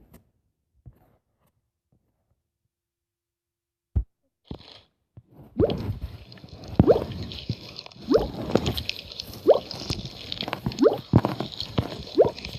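Slime being squeezed and kneaded by hand: wet squelching with short rising pops as air pockets burst. The squelching starts about five and a half seconds in, after near silence broken by a single knock.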